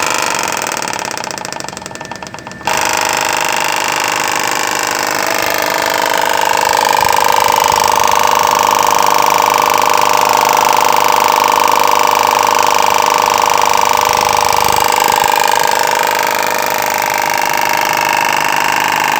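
Carrier 06E semi-hermetic reciprocating compressor on a 30GTN air-cooled chiller, running steadily with a close-up mechanical hum and whine. The sound turns abruptly louder about two and a half seconds in.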